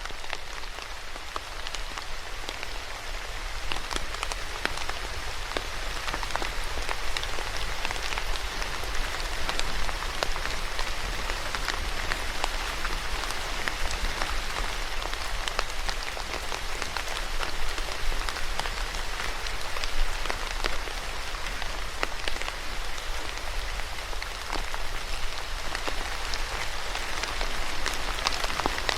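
Steady rain falling on a surface, a dense hiss dotted with many individual drop taps, with a low rumble underneath.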